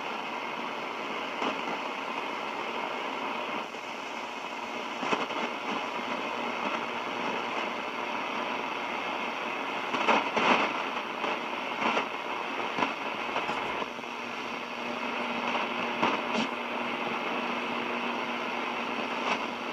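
Realistic DX-394 shortwave receiver on a long-wire antenna hissing with static, broken by sharp crashes of lightning static from a distant approaching storm, with a cluster of crashes about halfway through. A faint steady tone joins the hiss about two-thirds of the way in.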